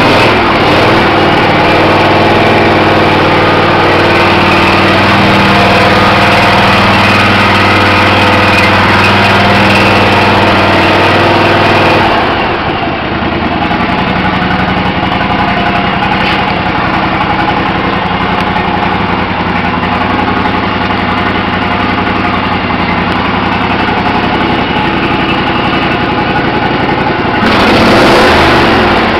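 Small gasoline engine of a garden or lawn tractor running steadily. About twelve seconds in the sound turns duller and a little quieter, and near the end it swells louder again.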